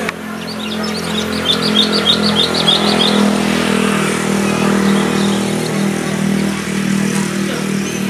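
A quick run of about a dozen high songbird chirps over the first three seconds, over a steady low engine hum that runs unchanged throughout.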